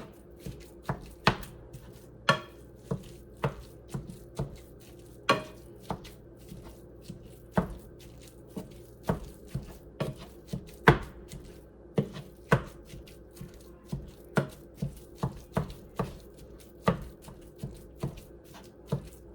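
A utensil chopping and breaking up ground beef in a frying pan on the stove, knocking against the pan in a quick, uneven series of strikes, roughly two a second.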